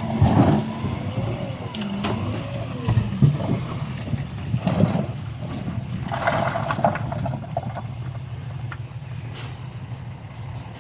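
Diesel engine of heavy earthmoving machinery running steadily, with several short louder bursts of noise over it.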